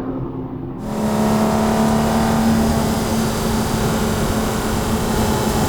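Porsche 911 R's naturally aspirated 4.0-litre flat-six engine running at steady revs while driving, with a steady hiss over it. About a second in, the sound changes abruptly from a duller note to a brighter one.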